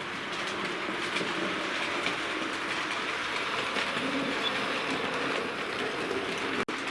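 Bachmann OO gauge A1 Pacific model steam locomotive running along model railway track: a steady whirr of its motor and wheels on the rails with faint clicks. The sound cuts out for an instant near the end.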